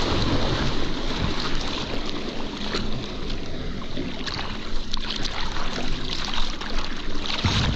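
Water rushing and splashing with wind buffeting the microphone, under a faint steady drone of the jet ski's engine.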